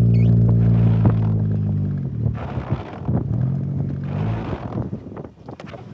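A 2014 Mazda 2 hatchback's four-cylinder engine running at a steady drone, heard from inside the cabin while driving. About two seconds in the engine note falls away into rushing road noise, comes back briefly, then fades.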